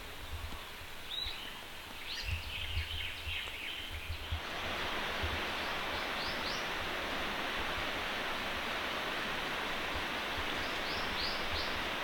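Steady rush of a distant waterfall, which grows suddenly louder about four seconds in. Short rising chirps come in a few small groups, with low wind rumble on the microphone.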